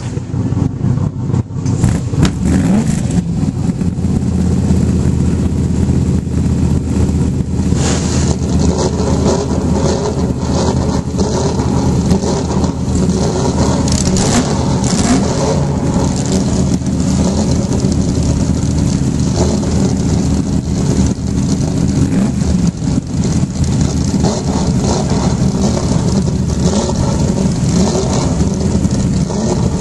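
Ferrari 365 GTB/4 Daytona race car's V12 engine running at idle, loud and steady.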